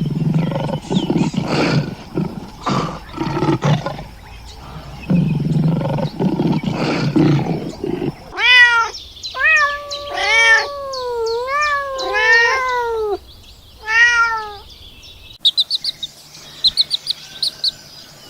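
A domestic cat meowing about six times, each meow rising and falling in pitch, in the middle of the stretch. Before that come about eight seconds of rough, noisy low sounds from another source, and near the end rapid high chirps like small birds or chicks.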